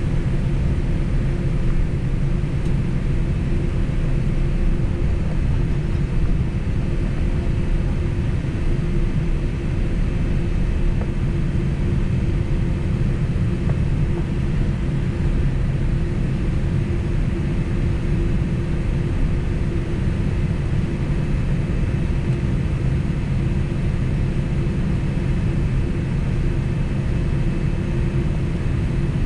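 Steady low rumble with a constant hum inside the cabin of a JAL Boeing 767 on the ground before takeoff.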